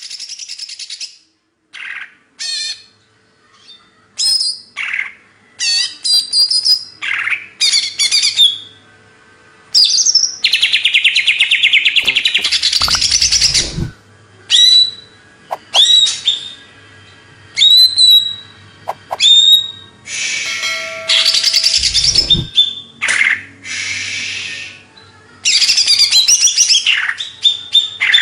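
Cucak ijo (green leafbird) singing a loud, varied song of quick whistles, chattering runs and sharp falling notes, phrase after phrase. Two brief low thumps come in partway through.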